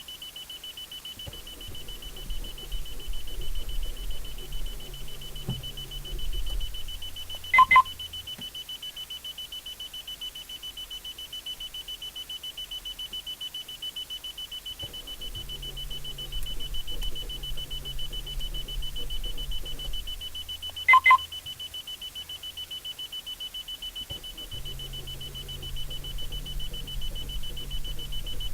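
A car's warning chime beeping rapidly and steadily in a car that won't start. Three stretches of low rumble come and go, and a loud double beep sounds twice, about eight seconds in and again about twenty-one seconds in.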